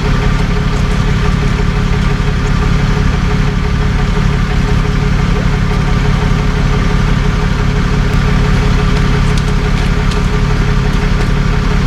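Tow truck's engine running steadily at an even low pitch.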